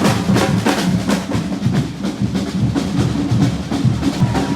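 Drums beating a steady rhythm, with heavy low drum strokes.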